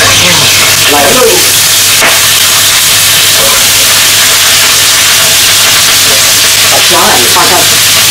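Whole green chili peppers frying in hot oil in a nonstick pan: a loud, steady sizzle.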